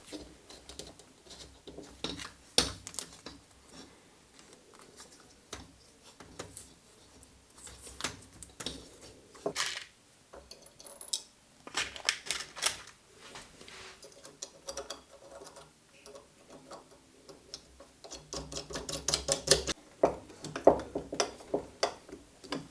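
Scattered light clicks, taps and rustles of hands working small parts and tools, coming irregularly, with a denser run of quick clicks near the end.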